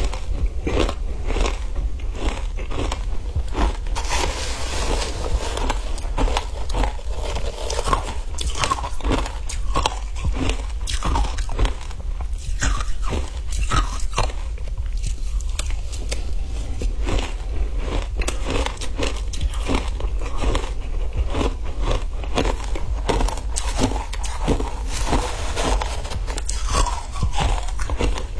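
Ice being bitten and chewed close to the microphone: a dense, irregular run of crunches that keeps on without a break.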